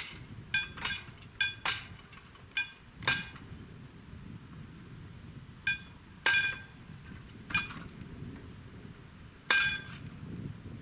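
A series of about ten sharp metallic pings at irregular intervals, each ringing briefly with a clear pitch, over a faint low rumble.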